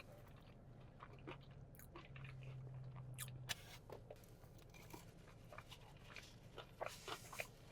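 Faint close-up chewing and crunching of crispy fried chicken, heard as scattered soft clicks and crunches.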